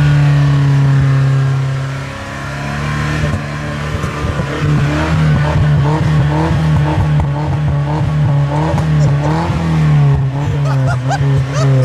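Nissan 240SX's KA24E four-cylinder engine held at a steady high speed, then revved up and down repeatedly from about four seconds in.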